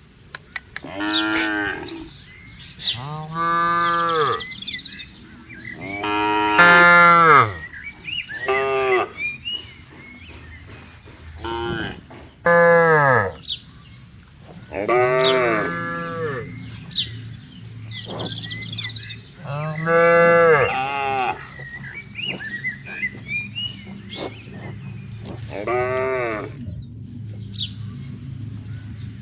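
Several cows mooing in turn, a long call every few seconds, some rising and falling in pitch.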